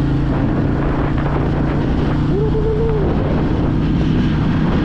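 Royal Enfield Meteor 350 single-cylinder motorcycle engine running steadily under way, with road and wind noise, and a brief higher-pitched tone about halfway through.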